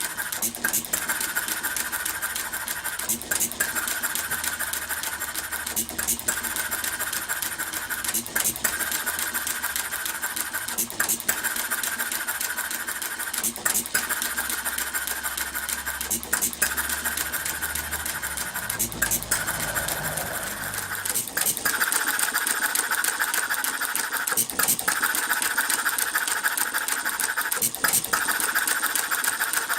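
Half-scale model Economy hit-and-miss gas engine running, with a sharp firing report about every two and a half seconds over a steady mechanical clatter of its moving parts.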